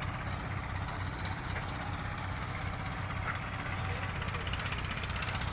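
Steady rushing of a river's running water, with a low rumble underneath.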